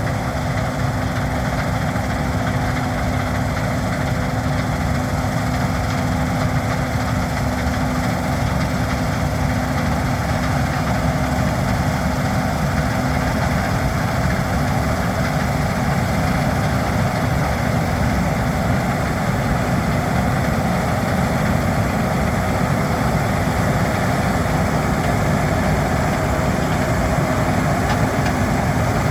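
Case IH 7150 combine harvester running steadily while harvesting wheat: an even engine and threshing drone with a steady low hum.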